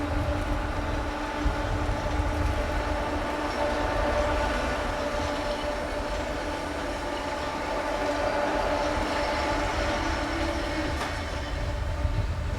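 Freight train locomotive running slowly during shunting, a steady low rumble with several held humming tones over it.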